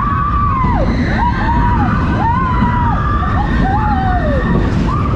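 Steel roller coaster train running through its enclosed tunnel, with a heavy rumble and a run of wavering squeals that rise and fall about half a dozen times, typical of wheels scrubbing the rails on a tight curve.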